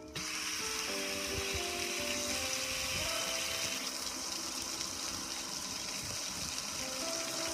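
Car wash water jets spraying, switching on suddenly at the start and then hissing steadily.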